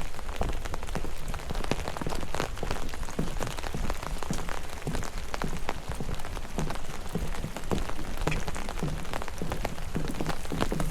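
Steady rain falling, with many close individual drops striking in a dense, irregular run of sharp taps.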